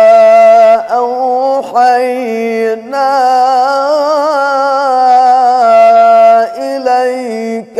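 A man's voice reciting the Quran in melodic tajweed style, drawing out long ornamented notes with vibrato and pitch turns, with brief breaks between phrases.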